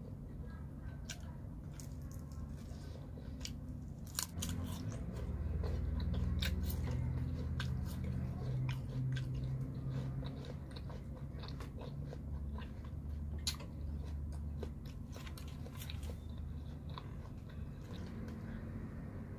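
Close-miked eating: a person biting and chewing pizza and pear slices, with many short crunches and mouth clicks scattered throughout.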